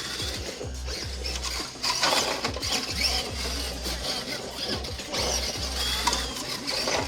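Axial SCX10.2 RC crawler's electric motor and geared drivetrain running in surges as it is driven, with a gear whine that rises and falls with the throttle.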